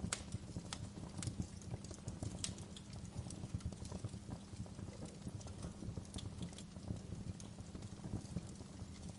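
Wood fire in a fireplace crackling, with irregular sharp pops and snaps over a steady low rumble of the flames; a louder pop comes right at the start and another about two and a half seconds in.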